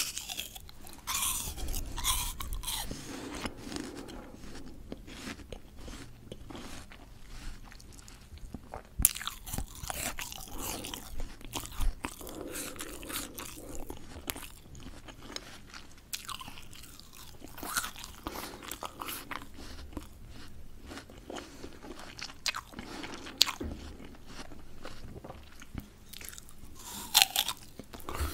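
Close-up mouth sounds of someone biting and chewing crisp raw fruit: sharp crunching bites, the loudest at the very start and again near the end, with crackly chewing in between.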